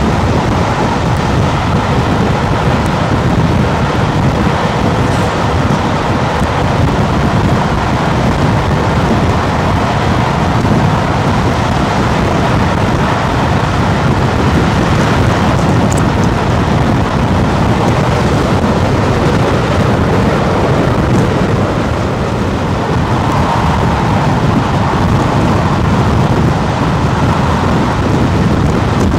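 Steady rumbling rush of a train running at speed, wheels on rail and air noise, heard from aboard the coaches behind A1 Pacific steam locomotive 60163 Tornado.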